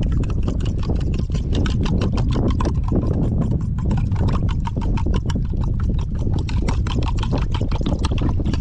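Wood campfire crackling with rapid sharp pops, over a steady low wind rumble on the microphone.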